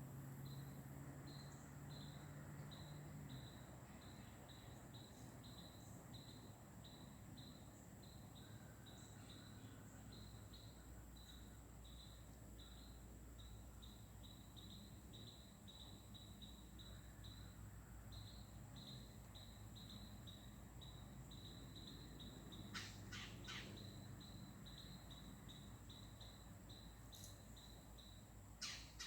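Faint woodland insect ambience: a steady high-pitched insect drone with a soft chirp repeating about twice a second, and a few short harsh bird calls about three-quarters of the way through.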